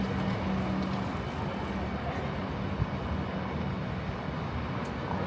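Steady city traffic rumble with a constant low engine hum, like a nearby idling or passing vehicle, and a single short click about three seconds in.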